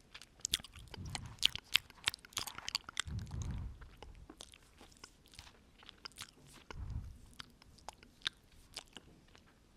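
Close-up ASMR mouth sounds: wet clicks and smacks of lips and tongue in quick irregular runs, with a few soft breaths into the microphone, about one second in, about three seconds in and near seven seconds.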